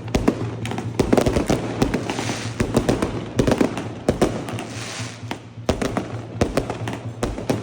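Fireworks going off in rapid succession: dense volleys of sharp bangs and crackles, with a hissing rush that swells twice, about two and about five seconds in.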